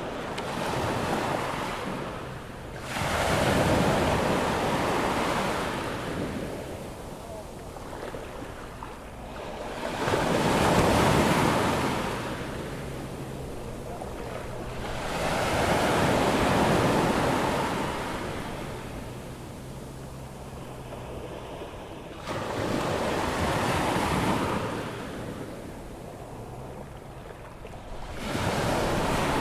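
Ocean surf breaking and washing up a sandy beach on a rising tide. Five waves come in about six seconds apart, each swelling to a loud rush and then fading back.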